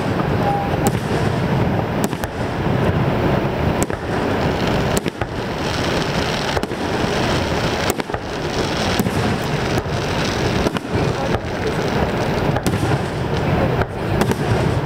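Aerial fireworks shells bursting overhead in a steady series of sharp bangs, roughly one a second, over a continuous rushing background noise.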